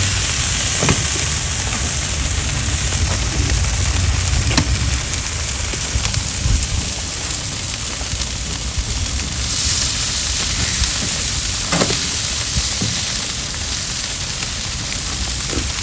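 Charcoal-and-wood barbecue fire hissing and crackling, with a few sharp pops scattered through it and a swell in the hiss about ten seconds in.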